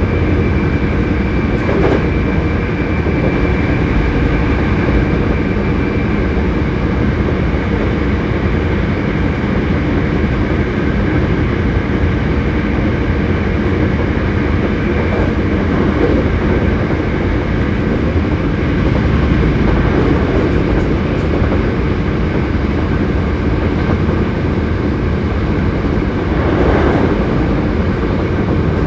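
Hankyu 7300-series electric train car running at speed, heard from inside the car: a steady rumble of wheels on rail with motor and gear whine tones, and occasional rail-joint clacks. The car is known for an unusual running noise. One high whine tone fades out about six seconds in.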